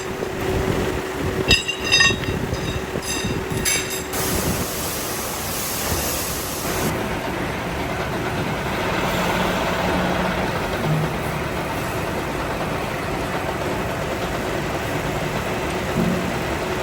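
Metalworking machinery running steadily in a workshop, with a few sharp metallic clinks in the first few seconds. The noise changes about four seconds in, when a steady hum stops and a hiss runs for a few seconds.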